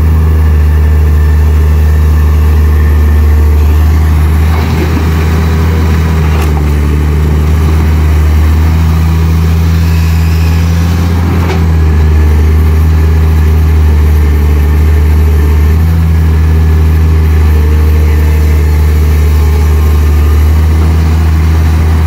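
Heavy diesel engine of road-works machinery running steadily at low revs, with small shifts in pitch and load.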